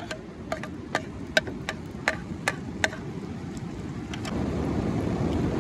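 Sliced onions and freshly added minced ginger-garlic sizzling in oil in a kadai over a wood fire, with sharp pops and crackles scattered through the first three seconds. About four seconds in, a louder steady rushing noise builds up.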